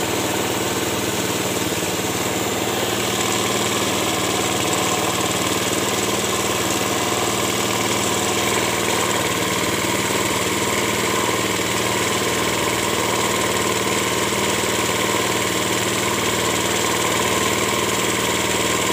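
Toyota 2AZ-FE 2.4-litre four-cylinder engine idling steadily, its balancer shaft newly replaced.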